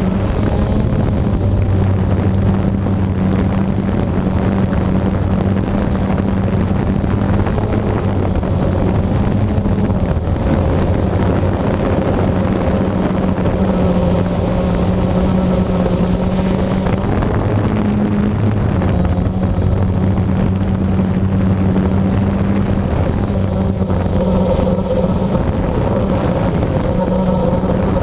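Blade 350QX quadcopter's electric motors and propellers humming steadily in flight, the pitch shifting a little as the motors adjust, over a rushing noise of air.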